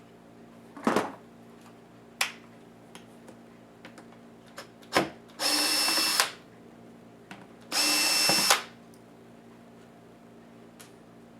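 Small cordless electric screwdriver whirring in two short bursts under a second each, driving screws out of a laptop case. A few sharp clicks and knocks of parts being handled come before them.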